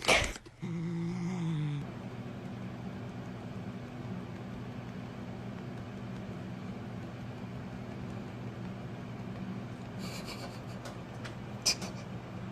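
Steady low machine-like hum, with a few faint clicks near the end.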